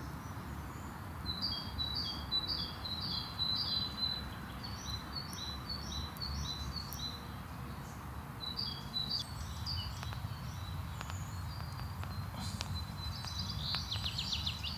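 A songbird singing, phrases of short high notes repeated every few seconds, the last one ending in a quicker trill, over a steady low rumble of outdoor background noise.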